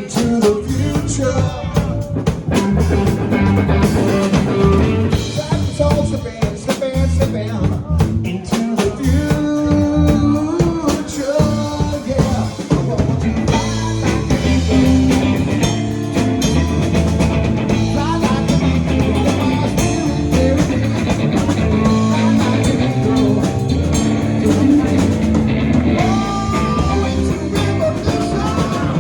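Live rock and roll band playing: drum kit, electric guitar and bass, with singing.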